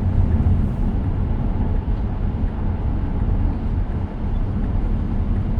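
Steady low rumble of road and tyre noise heard inside the cabin of a moving 2023 Tesla Model X, an electric car with no engine sound.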